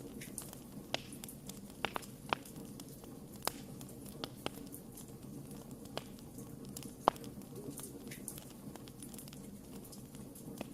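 Wood campfire burning with a steady low rush of flame and scattered sharp crackles and pops, irregular, the loudest pop about seven seconds in.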